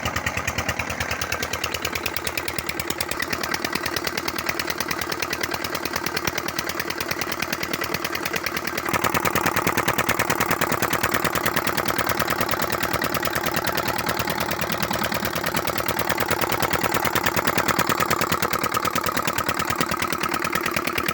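Tube well diesel engine running steadily with a rapid, even beat of firing strokes; it gets louder about nine seconds in.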